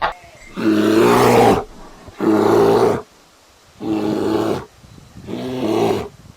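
A large animal calling four times, each a low, rough call of about a second with short pauses between.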